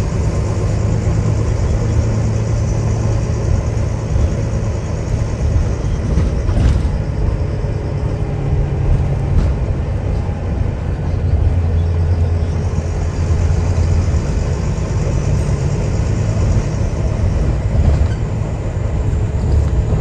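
A Volvo B9TL double-decker bus's diesel engine running under way, heard from inside the cabin: a steady low drone whose pitch shifts a little as the bus gathers speed and eases off, over road noise and a couple of faint knocks.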